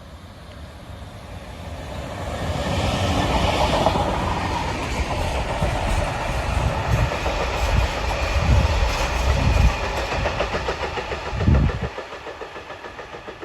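A freight train passing slowly. The locomotive's engine sound builds over the first few seconds, then the wagons rumble and clatter over the rail joints with heavy repeated thumps, the loudest near the end. About twelve seconds in it drops away to quieter, evenly spaced clicks.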